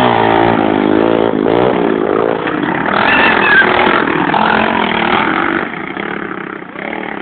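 Pit bike engine revving, its pitch rising and falling as it rides, then fading away about five and a half seconds in.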